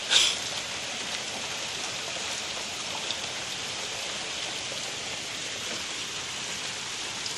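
Steady rain pouring, an even hiss of drops falling on surfaces, with a brief louder rustle right at the start.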